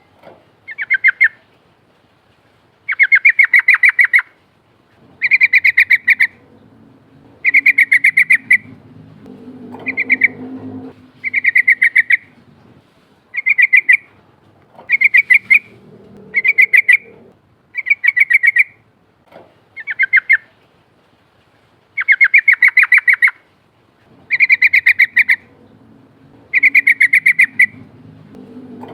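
Yellow-vented bulbul (trucukan) calling in loud rolling, bubbly phrases, each a quick trill of about a second, repeated every second or two.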